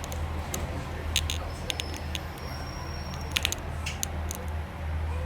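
Inside a Pacer railbus slowing into a station: a steady low drone from the underfloor diesel and running gear, with sharp clicks and rattles throughout and a faint high squeal about two and a half seconds in.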